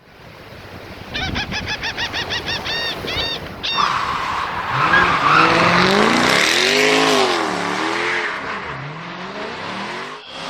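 A quick run of repeated chirps for a few seconds, then a motor vehicle engine revving up and down over a loud noisy hiss.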